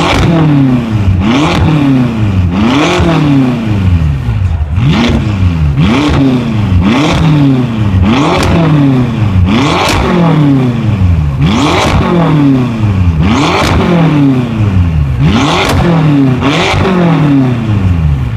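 Manhart-tuned BMW M6's twin-turbo V8 being revved while standing, through a quad-pipe exhaust. It makes a series of about a dozen quick blips, each rising sharply in pitch and then falling back, one every second or two.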